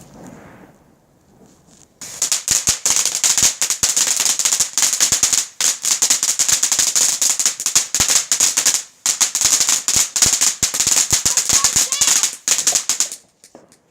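A crackling firework going off: a dense run of rapid, sharp pops and crackles starts about two seconds in. It lasts roughly eleven seconds with two brief gaps, then stops.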